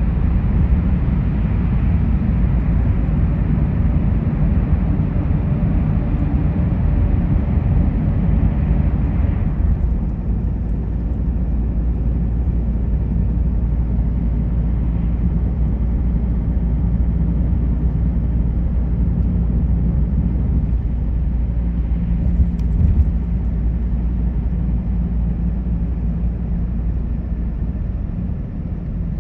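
Car driving along a road: a steady low rumble of engine and road noise, with the higher tyre hiss dropping away about ten seconds in.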